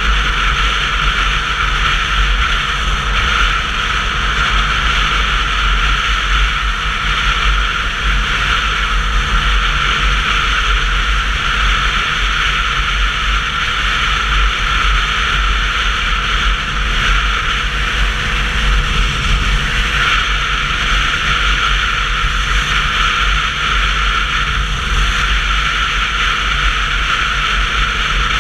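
Wind and road noise of a Sinnis Terrain 125cc motorcycle under way, with wind rushing over the camera's microphone. A steady, deep rumble that holds an even level throughout.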